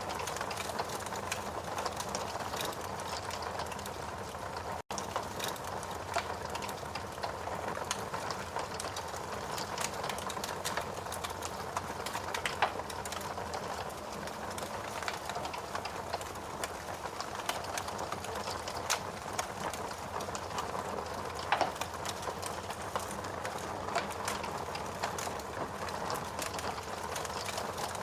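Fire crackling with irregular snaps and a few sharper pops, over a steady hiss of rain. The sound cuts out for an instant just before five seconds in.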